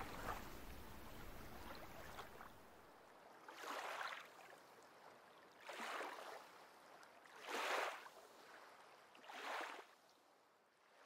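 Faint room hiss, then four soft swells of rushing noise about two seconds apart, each rising and falling within about a second.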